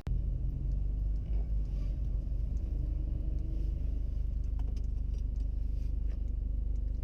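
Mazda Miata's engine running with a steady low rumble, heard through a GoPro mounted on the car.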